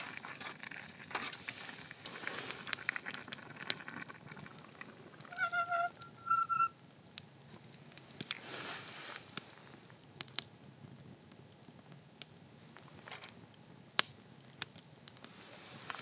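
Campfire crackling with scattered sharp pops and small clicks. Two short squeaky tones come about five and a half and six and a half seconds in.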